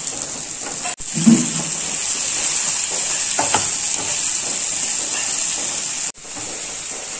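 Sliced onions and green chillies sizzling in hot oil in a frying pan, a steady hiss, stirred with a spatula. The sizzle cuts out sharply about a second in and again about six seconds in.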